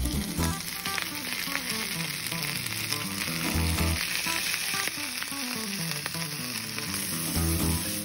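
Cauliflower steaks sizzling as they fry in a hot stainless steel pan, a steady hiss.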